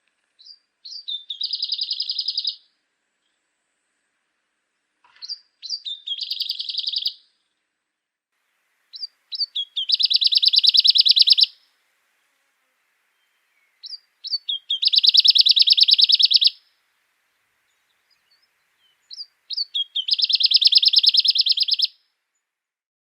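A songbird singing five phrases, one every four to five seconds. Each phrase is a few short, high notes followed by a rapid, even trill lasting one to two seconds.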